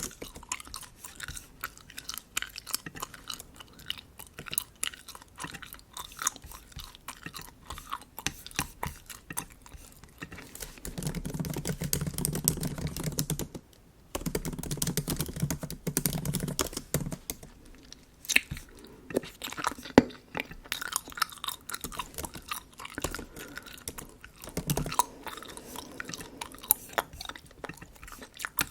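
Close-miked bubble gum chewing: dense, irregular wet mouth clicks and smacks, with light typing on a MacBook keyboard mixed in. Twice midway a low drone comes in for a few seconds.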